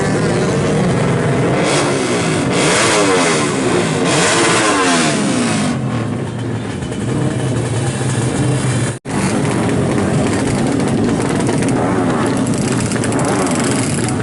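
Two-stroke motorcycle engine revving hard, its pitch sweeping up and down again and again. It cuts out for an instant about nine seconds in, then carries on revving.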